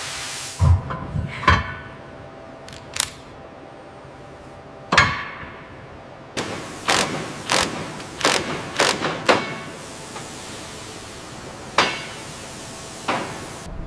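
A series of sharp knocks and clanks at irregular intervals, several coming in quick succession in the middle, over a steady low background.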